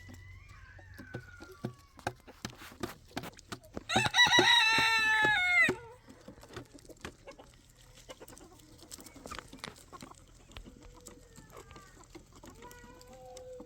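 A rooster crows once, a single loud call of nearly two seconds about four seconds in, dropping slightly in pitch as it ends. Fainter bird calls and scattered clicks come before and after it.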